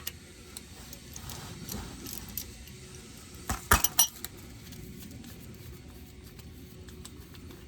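Metallic clinks and taps of hand tools against the differential's fill plug as it is worked out, with a cluster of sharper clinks about three and a half to four seconds in.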